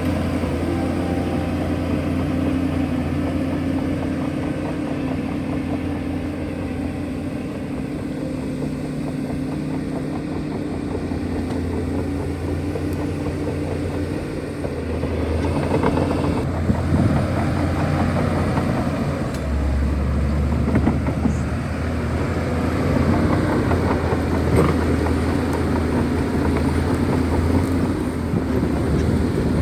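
Shantui DH17C2 bulldozer's diesel engine running steadily. From about halfway the sound grows rougher and busier, and about two-thirds of the way through the engine note drops lower.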